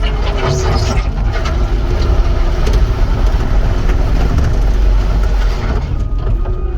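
Cat 259 skid steer's diesel engine running steadily under work, with a few sharp metallic knocks in the first second or so.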